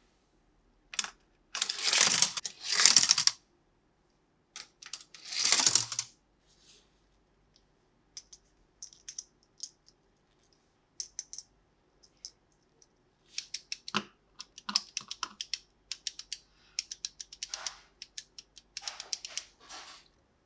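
Toy packaging and plastic toy parts being handled: loud rustling bursts in the first few seconds and again about five seconds in, then a long run of small quick clicks and taps.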